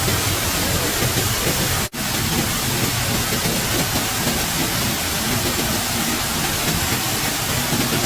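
Loud, steady rushing of water, with a momentary gap about two seconds in.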